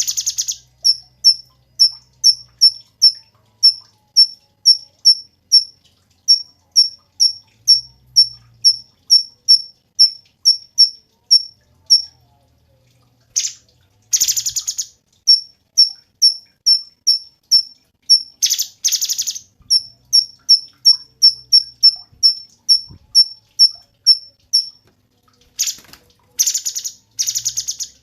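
Cucak cungkok songbird singing: a long, fast run of short, high piping notes, about three a second, broken by a few pauses. Three louder, harsh buzzy bursts come about 13 s, 18 s and 26 s in.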